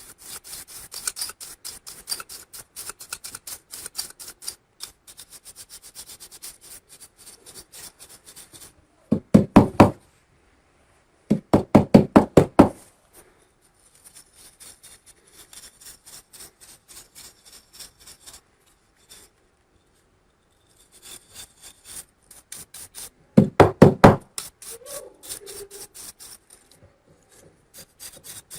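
Rapid scraping and rubbing strokes on laptop parts. Three times, about 9, 12 and 24 seconds in, there is a short burst of much louder, fast knocking strokes.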